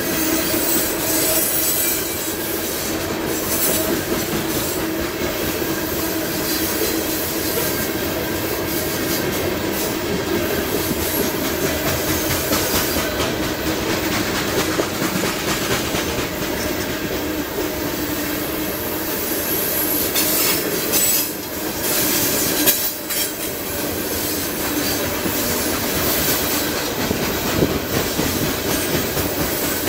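CSX freight train of coal hopper cars rolling steadily past, its wheels clattering on the rails with a continuous rumble.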